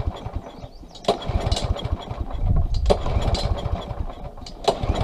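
Small mower engine being pull-started: the recoil starter is yanked a few times about two seconds apart and the engine turns over without catching, the typical sign of a carburettor jet clogged by old fuel.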